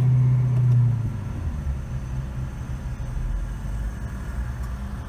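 Low car engine rumble heard from inside a car: a steady low drone for about the first second, then a deeper, uneven rumble as the car ahead pulls away.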